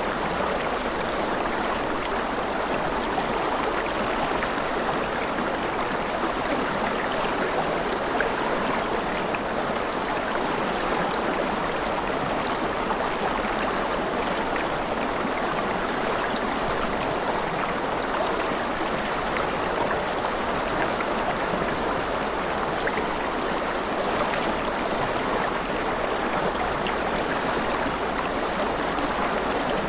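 Rushing river water flowing steadily, an even splashing rush with no change in level.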